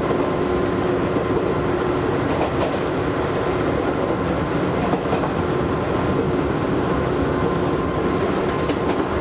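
Inside an Izu Hakone Railway Series 3000 electric train running between stations: a steady rumble of wheels on rail with a constant hum, and a few faint clicks.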